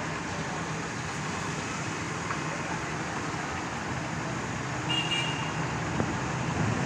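Steady hiss of heavy rain, with road traffic passing, and a brief high tone about five seconds in.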